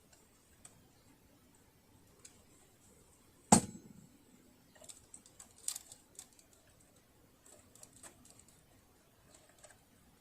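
Small metallic clicks and taps from hands and tools working on a partly dismantled sewing machine, with one sharp knock about three and a half seconds in.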